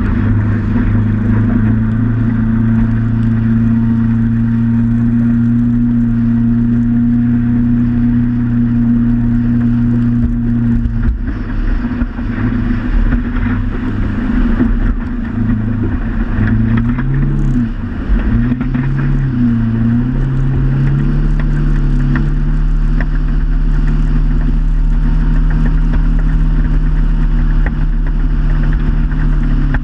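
Motorboat engine running steadily, with a rush of wind and water. About a third of the way in its pitch wavers up and down several times, then it settles at a higher, steady speed.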